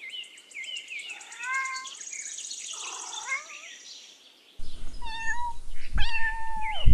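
Domestic cat meowing repeatedly: several short meows, then a louder, longer, steady meow near the end.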